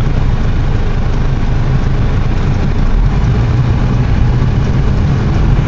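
Car running, heard from inside the cabin, a steady low rumble with an even rushing hiss over it from the dust-storm wind.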